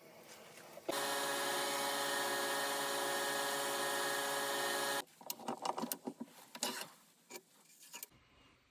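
A power tool's motor runs at a steady, even pitch for about four seconds, starting and stopping abruptly. A few seconds of irregular clicks and light knocks from handling follow.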